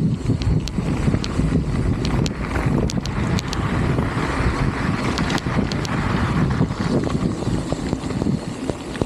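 Strong wind buffeting the microphone with a steady low rumble, broken by scattered sharp clicks and rattles.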